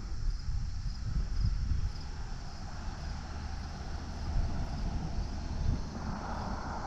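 Wind rumbling and buffeting on the microphone outdoors, over a faint steady high-pitched hum from the surroundings.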